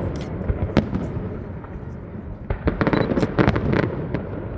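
Fireworks display: scattered sharp bangs, then a rapid cluster of crackling reports about two and a half seconds in, fading off near the end.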